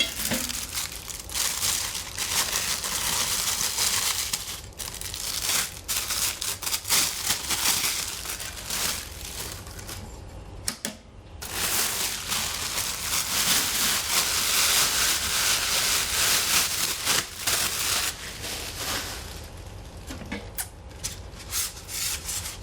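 Packaging being crinkled and rustled by hand as the parts are unwrapped, a busy crackling with many small clicks and a short pause about halfway through.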